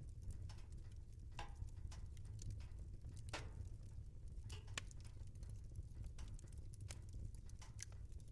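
Wood fire burning in a fireplace: a low steady rumble of flames with irregular crackles and pops, a few sharper ones standing out.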